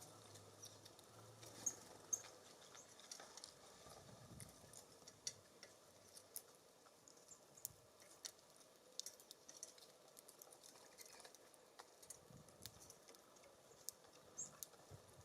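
Faint, irregular small taps and clicks of birds pecking and hopping at a wooden seed feeder, with a couple of brief high chirps; two sharper clicks about two seconds in.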